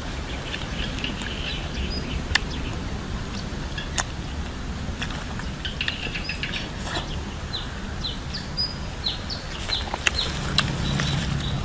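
Small birds chirping repeatedly with short, quick falling notes, busiest in the second half, over outdoor ambience with a faint high trill. Scattered sharp clicks cut in now and then.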